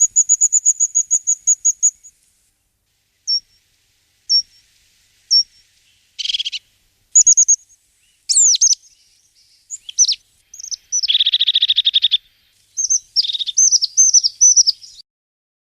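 A small songbird singing: a fast trill of high notes at the start, then scattered short chirps and quick whistled phrases, a buzzy trill past the middle, and a run of repeated slurred notes near the end.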